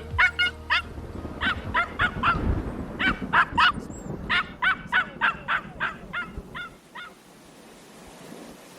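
Birds calling: a rapid run of short calls, each rising and then falling in pitch, some overlapping, that stops about seven seconds in, leaving a faint hiss.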